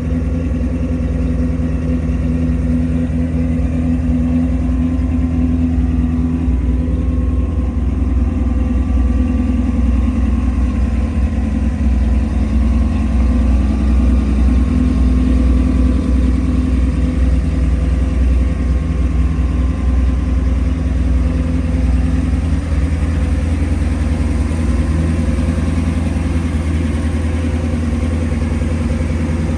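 Swapped-in V8 engine of a 1999 Chevrolet S-10 pickup idling steadily.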